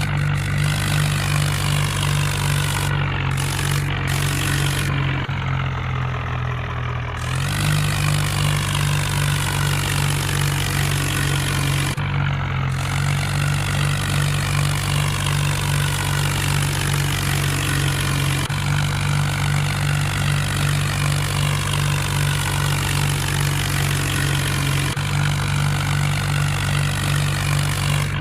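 Mahindra tractor's diesel engine running steadily. It sags briefly about six seconds in and picks back up.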